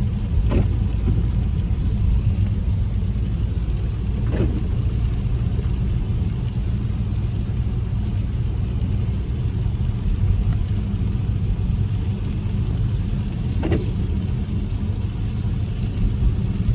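Car interior road noise while driving: a steady low rumble of engine and tyres, with three brief sharp sounds about half a second, four and a half seconds and fourteen seconds in.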